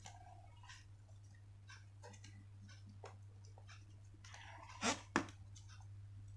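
Sheets of paper being folded and creased by hand: soft rustles and small crinkling clicks, with two louder crinkles close together near the end, over a steady low electrical hum.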